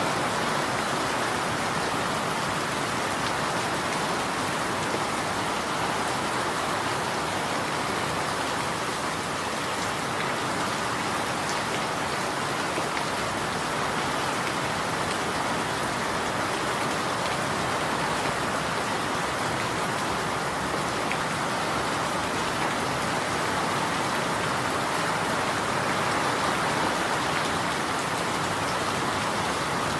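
Steady rain falling and pattering on surfaces, an even hiss without thunder or breaks.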